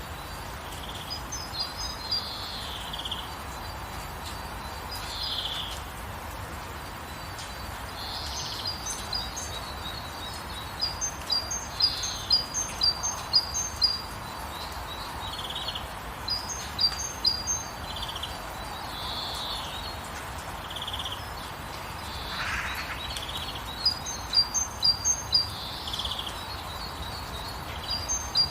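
Steady rain hiss with songbirds over it: short slurred whistles and several quick runs of high, clipped chirps.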